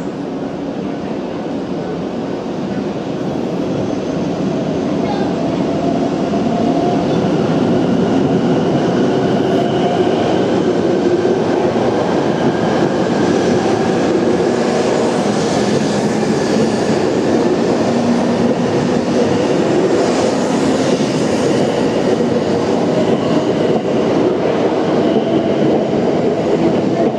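E2 series Shinkansen train pulling out and rolling past, its running noise building over the first several seconds and then holding steady as the cars go by. A faint motor whine climbs slowly in pitch as the train gathers speed.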